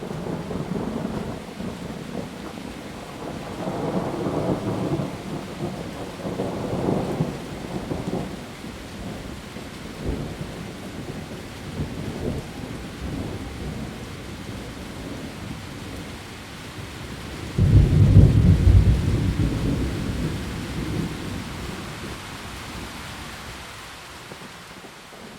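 Steady heavy rain with rolling thunder: several low rumbles in the first half, then a sudden loud clap about two-thirds of the way in that rumbles away over several seconds.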